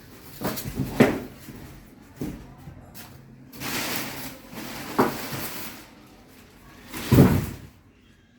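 A series of about five knocks and bumps with rustling between them, the loudest one about seven seconds in, like hard parts being opened, shut or handled.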